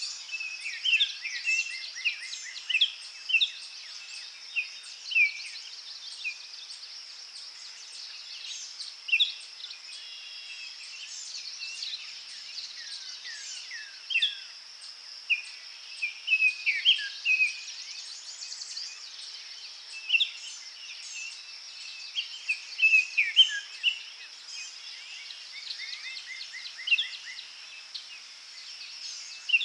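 Forest birdsong: several birds chirping and trilling in short phrases throughout, over a steady high-pitched insect drone.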